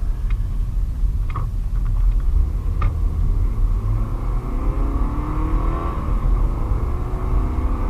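Inside a 2008 Scion tC's cabin while driving: steady low road and engine rumble, with a few sharp clicks in the first three seconds. From about halfway the four-cylinder engine's note climbs as the car accelerates.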